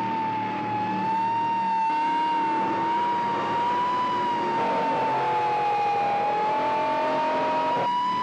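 A siren holding a steady high wail that drifts only slightly in pitch, over car engines revving and running during a car chase.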